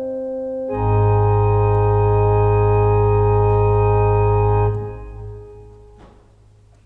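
Organ music ending: after a few moving notes, a full final chord is held for about four seconds, then released and left to die away.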